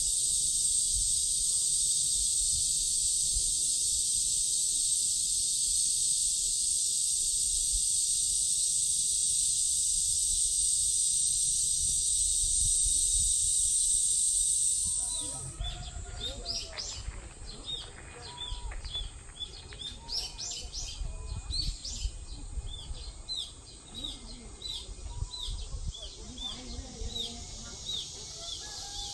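Cicadas in a loud, dense, steady chorus that cuts off abruptly about halfway through. After that, birds chirp in many short, quick calls.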